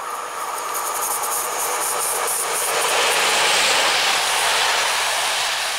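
EP07P electric locomotive and its passenger coaches passing close by at speed. The rush of wheels on rail grows to its loudest about halfway through, then eases slightly as the coaches go by.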